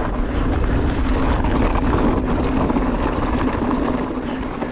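Riding noise from an electric mountain bike on a loose trail: wind rushing over the microphone and tyres rolling on dirt, with a steady drone from the pedal-assist motor.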